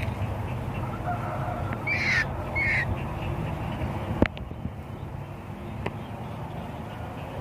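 A bird gives two short, harsh squawks in quick succession, over a steady low rumble. A sharp click follows a little later.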